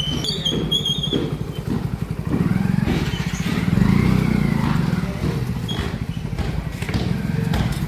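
A motor vehicle engine running close by, loudest about four seconds in, with a faint rise and fall in pitch as it passes.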